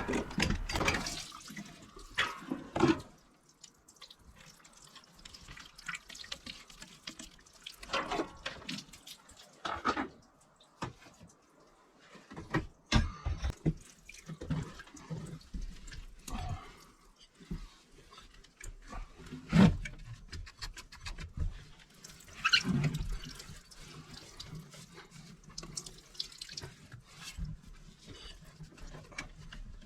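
Water running and dripping while hose fittings are handled, with scattered clicks and knocks of the couplings.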